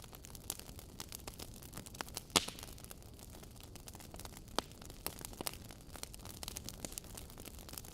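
Wood fire crackling in a fireplace: frequent small sharp pops and snaps over a steady low hiss, with one louder pop about two and a half seconds in.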